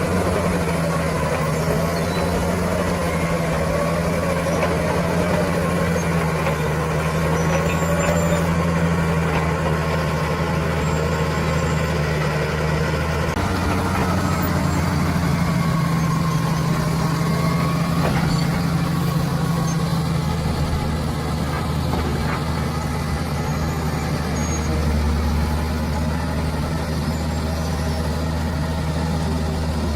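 Bulldozer's heavy diesel engine running steadily under work, its note shifting slightly a couple of times, with faint wavering squeals and clanks over it.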